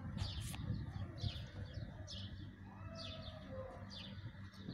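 A small bird chirping repeatedly: about six short chirps, each falling in pitch, roughly one a second, over a steady low rumble.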